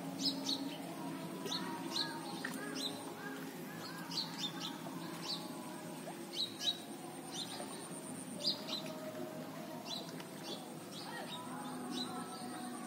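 Small birds chirping: many short, sharp, high chirps at irregular intervals, with softer warbling notes beneath them. A thin, steady high whine comes and goes in stretches of a few seconds.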